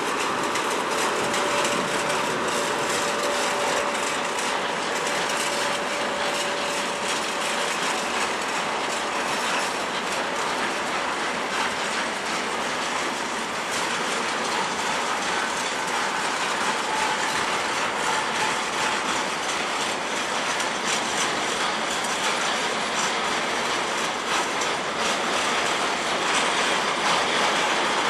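Freight train of tank wagons rolling past at speed, a steady clatter of wheels over the rails with rapid clicks, and a faint thin tone in the first several seconds.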